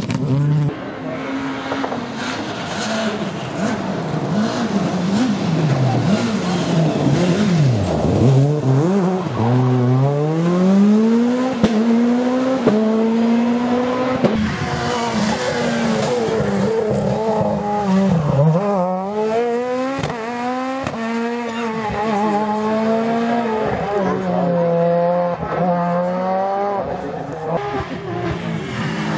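Rally car engine revving hard, its note climbing and dropping again and again through gear changes and lifts, with tyre noise.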